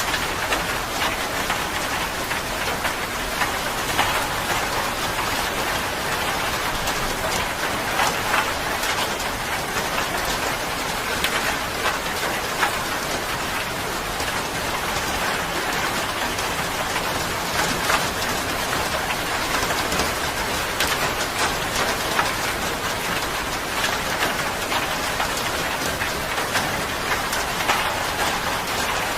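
Steady rain falling, a dense even hiss dotted with many individual drop patters.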